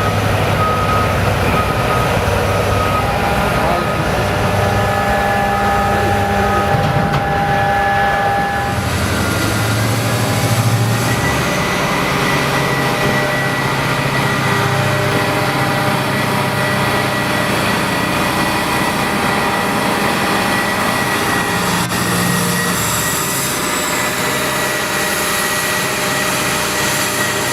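Heavy machinery running steadily, with a steady whine over it and a change in its low tone about nine seconds in.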